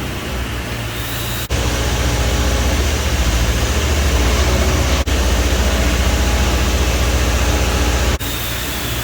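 Engine of an aerial boom lift running under load as the platform is raised, with a steady low drone. It gets louder about a second and a half in, with a brief break in the middle, and drops back near the end.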